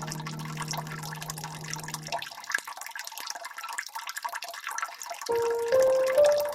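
Water dripping and trickling steadily, with soft piano over it: a held low chord dies away in the first two seconds, and about five seconds in a slow rising line of single notes begins.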